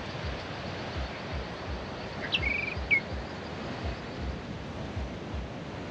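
A bird calls once about two seconds in: a short falling whistle, a brief trill and a second falling whistle. Under it runs a steady hiss of wind and surf with soft low thumps.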